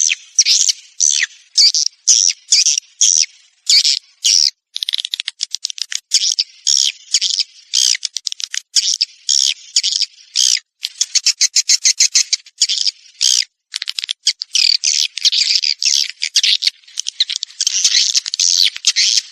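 Recorded swiftlet lure calls: a dense, loud chittering and twittering of swiftlets in quick bursts, with rapid runs of clicks in the middle, played to attract swiftlets into a nesting house.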